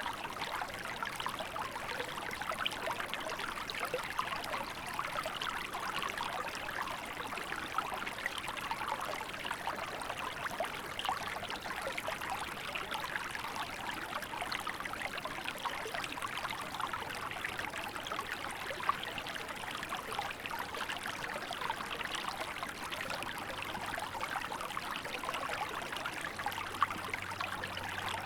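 A small river running steadily, its water trickling and babbling in a continuous rush.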